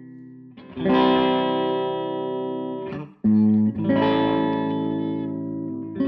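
Electric guitar played through a Tone King Gremlin tube amp on its rhythm channel. Two chords are struck and left to ring out, the first about a second in and the second about halfway through, each stopped short before the next.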